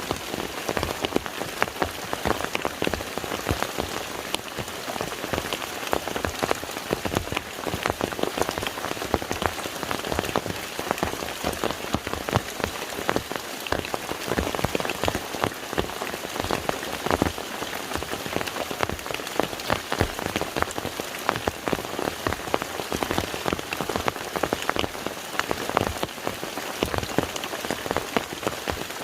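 Steady rain falling onto a lake's water surface, with many individual drops pattering in a dense, even hiss.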